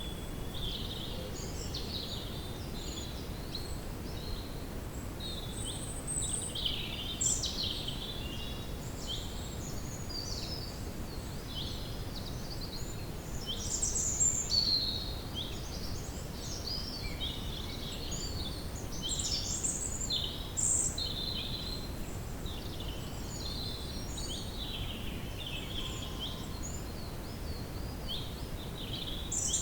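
Woodland ambience: a chorus of small songbirds chirping and trilling, many short overlapping calls, over a steady low background rumble.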